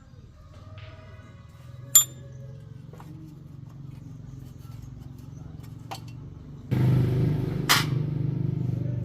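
Workshop sounds: a sharp metal clink with a brief ring about two seconds in and a lighter tap near six seconds, over a low steady hum. Near the seventh second a louder rushing, mechanical noise starts abruptly, with a knock inside it, and runs to the end.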